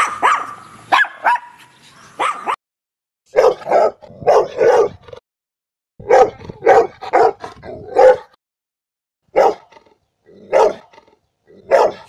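A Chihuahua's short, high-pitched yaps for the first two seconds or so. After a brief gap come deeper Rottweiler barks, singly and in quick runs, with a burst of about six barks in a row midway.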